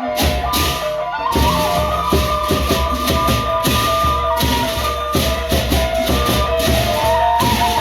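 Gendang beleq ensemble playing: big double-headed drums beating a steady pattern under a constant clash of cymbals, with a held melodic line that steps between a few pitches above them.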